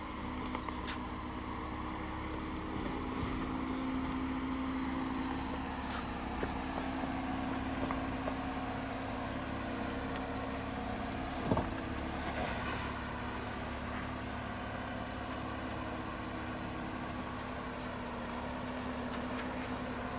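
Off-road truck engine running at a steady low speed while crawling a trail, with a few light clicks and one sharp knock about eleven seconds in.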